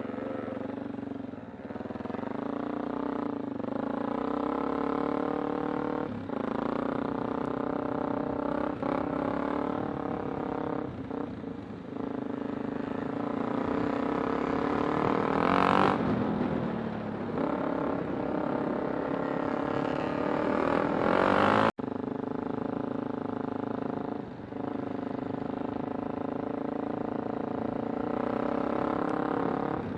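Kawasaki Super Sherpa's 250 cc air-cooled single-cylinder four-stroke engine running under way with a steady note, revving up sharply about halfway through and then dropping back. The sound breaks off for an instant a little past two-thirds of the way through.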